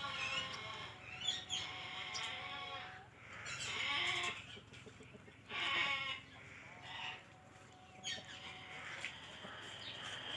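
Pet parrot vocalizing in a string of squawks and chattering calls, loudest about four and six seconds in, with a held whistle near the end.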